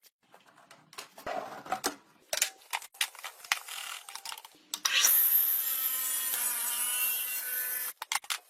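Wood being handled and rubbed with scattered knocks and scrapes, then an electric power tool working wood runs steadily for about three seconds, about halfway through, and stops abruptly.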